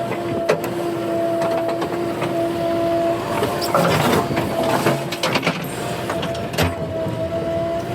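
JCB 3DX backhoe loader's diesel engine and hydraulics running under load with a steady whine, with scattered knocks and a louder clatter about halfway through.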